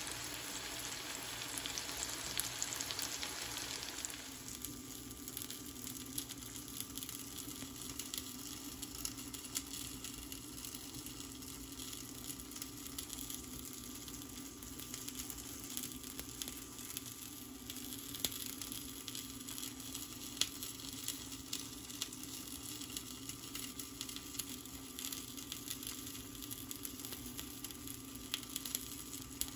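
Egg-coated eggplant slices frying in oil in a pan, with a busy sizzle and crackle of spitting oil. After about four seconds the sizzle drops to a softer scattered crackling over a steady low hum.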